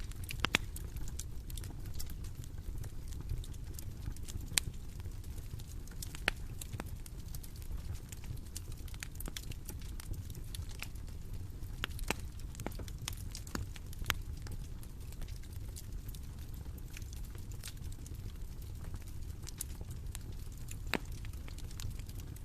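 Bonfire crackling: irregular sharp pops and snaps from the burning wood over a steady low rumble of the flames.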